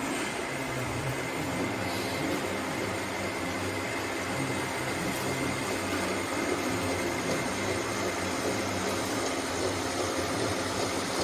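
Steady mechanical running noise with a low uneven rumble and a faint high whine held throughout.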